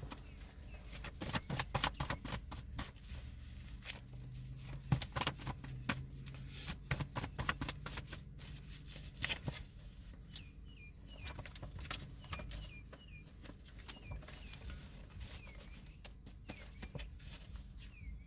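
A deck of reading cards being shuffled and handled: a long run of quick, crisp flicks and taps with short pauses between.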